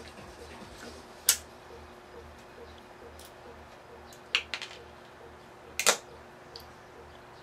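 A few sharp clicks and taps of small parts and tools being handled while taking apart a sumo robot: one a little over a second in, a quick cluster past the middle, and a double click near the end, over a faint steady hum.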